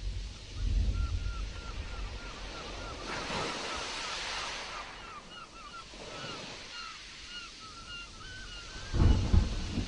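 Storm-driven sea waves washing in, with low rumbling gusts hitting the microphone about a second in and again near the end, the loudest moments. A bird calls through most of it in a fast series of short, repeated chirps.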